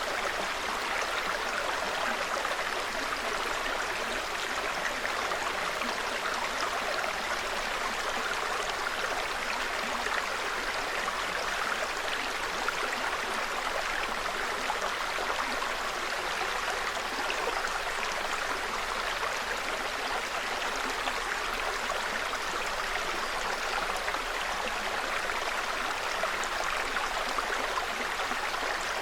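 Small mountain brook babbling steadily over stones, an even, unbroken rush of running water.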